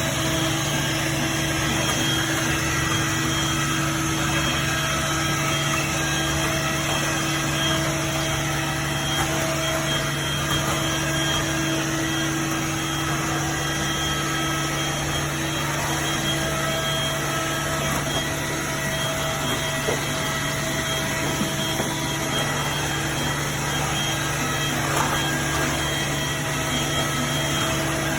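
Corded stick vacuum cleaner running steadily, its motor giving a constant whine over the rush of air.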